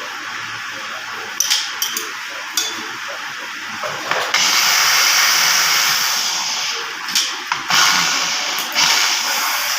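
Power tool running steadily with a hissing sound, growing louder for a few seconds in the middle, with a few sharp clicks.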